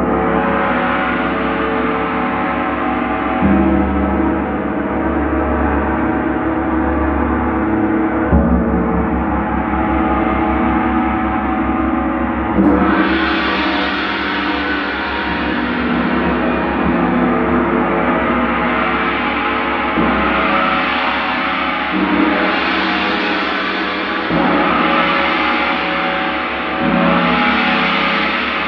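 Ringing, gong-like musical tones in many layers. A fresh stroke comes every few seconds, about seven in all, each sustaining under the next.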